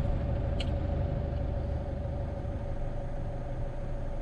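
Camper van engine idling: a steady low rumble with a constant hum above it and a faint click about half a second in.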